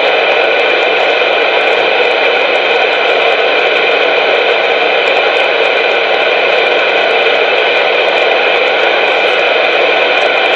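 Loud, steady static hiss from a CB radio on an open channel, with faint steady tones running through it and no voice.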